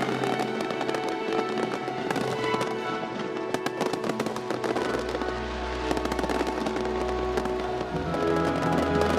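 Fireworks crackling and popping in quick, irregular bursts over music with sustained notes; a deep bass note enters about halfway through and shifts again near the end.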